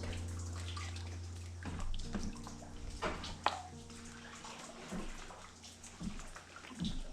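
Seawater sloshing and splashing around a kayak in swell, with several sharper splashes at irregular moments.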